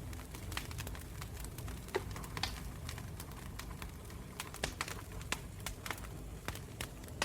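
Campfire of burning wood crackling: irregular snaps and pops, a few louder than the rest, over a low steady rumble of the flames.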